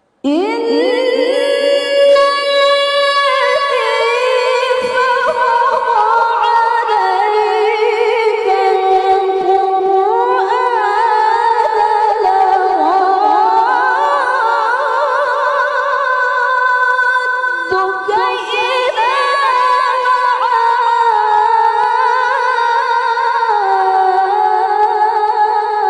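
A woman's high, clear voice reciting the Quran in the melodic tilawah style, drawing one long phrase out over held, wavering notes. It begins abruptly after a pause.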